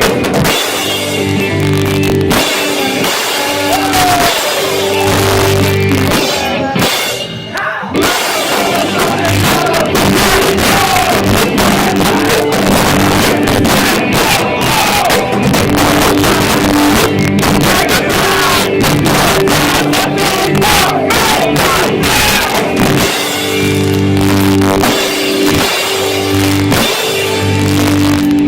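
Hardcore punk band playing live at full volume: distorted guitars, drums and vocals, harsh and distorted through a cheap phone's microphone, with a short break about seven and a half seconds in.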